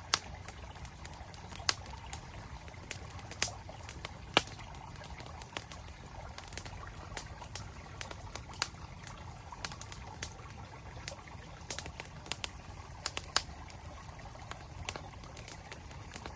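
Campfire crackling, with frequent sharp irregular pops, over the steady rush of a flowing stream.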